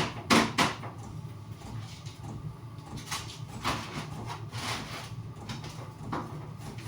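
Roofing felt being handled and laid on a wooden box lid: a few scattered knocks and rustles, three in quick succession at the start and then single ones spread apart, over a steady low hum.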